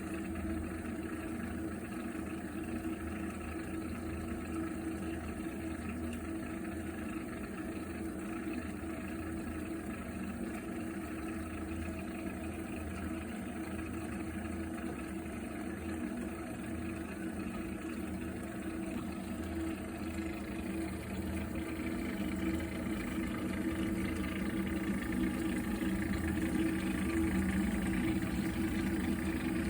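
Viessmann Vitodens 100-W B1KF-19 gas combi boiler making a steady humming drone while heating hot water, the strange noise its owner takes for a fault. It grows a little louder about two-thirds of the way through.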